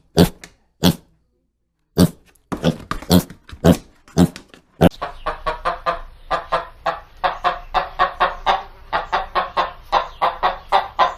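Chickens clucking: a few separate short clucks, then from about five seconds in a fast run of short clucks, several a second.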